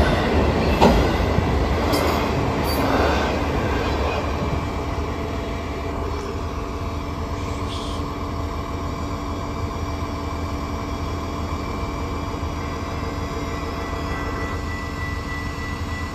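Train rolling past on the rails, with a few clanks and heavier rumble over the first few seconds, then a steady run with wheels squealing in held tones.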